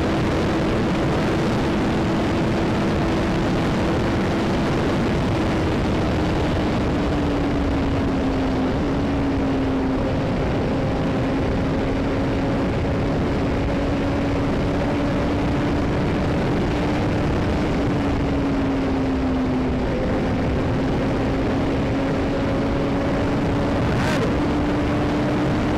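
Motorcycle riding at speed: heavy wind rush over the microphone with a steady engine drone underneath, its pitch sagging a little and climbing back.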